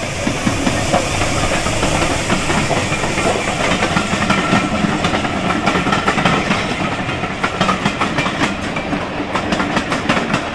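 Heritage steam train passing close by: a loud steady rush of the train going past, with the carriage wheels clacking over the rail joints in a quickening run of clicks through the second half.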